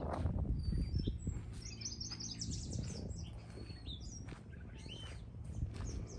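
Small songbirds singing in the brush: quick high chirps and warbled notes, thickest in the first half. Low wind noise on the microphone dies away over the first second or so.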